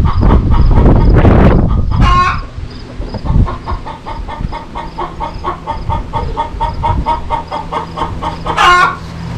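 Chickens calling in a coop: rapid repeated clucking and chirping, with two loud drawn-out calls, one about two seconds in and one near the end. Loud rumbling handling noise fills the first two seconds.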